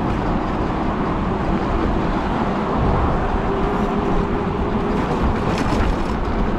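Steady wind rumble on the microphone and road noise from riding an e-bike, with a faint steady hum underneath.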